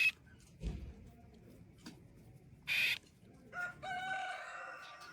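Birds calling: a short, harsh squawk about half-way in, then a longer, drawn-out call with several overtones near the end. There is a soft low thump about a second in.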